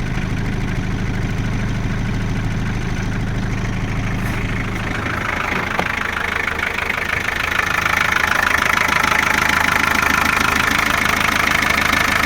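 Ford Sierra's 2.3-litre four-cylinder diesel idling just after a start from standing several days. About halfway through the deep hum fades and a louder, higher clatter takes over.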